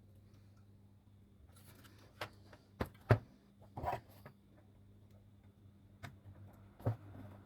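Several sharp clicks and taps of hand tools and parts being handled on a workbench, the loudest about three seconds in, over a steady low electrical hum.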